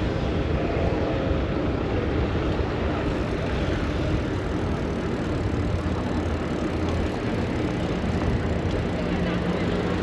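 Steady traffic noise of a busy city street, heard from a moving bicycle.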